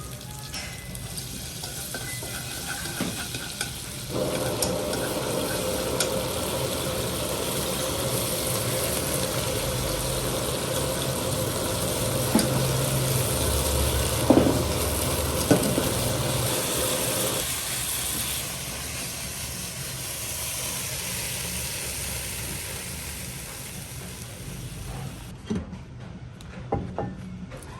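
Food sizzling in a hot pan, starting suddenly about four seconds in and dying away after about eighteen seconds, with a few sharp clinks of utensils in the middle.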